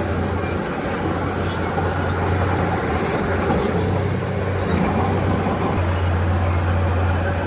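Diesel engine of heavy earthmoving machinery running steadily under work, with a constant low drone.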